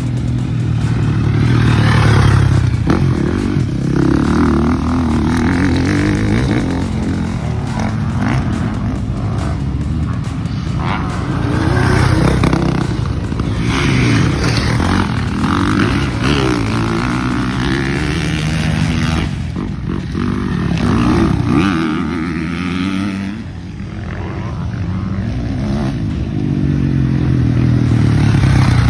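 Motocross bikes riding the track, their engines revving up and dropping back again and again as they accelerate, shift and pass.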